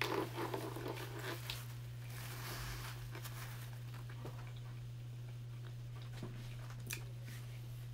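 Close-up chewing of a chili cheese dog, mouth sounds mostly in the first three seconds, then a few small clicks near the end, over a steady low hum.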